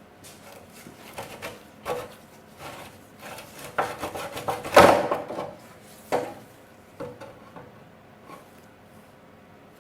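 Irregular clicks, knocks and rattles of tools and metal parts being handled while a trike is dismantled, loudest in a short clatter about five seconds in.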